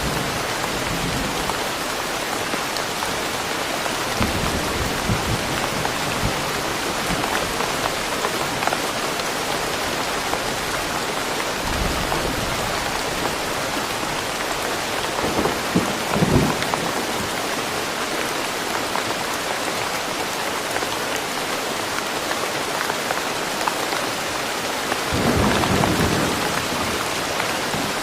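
Steady rain falling in a forest, an even rushing hiss. Low rumbles of thunder swell about halfway through and again near the end.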